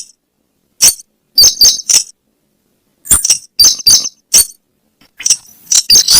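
Lure recording of weris bird calls: sharp, clinking notes in quick groups of two to four, with short silent gaps between the groups.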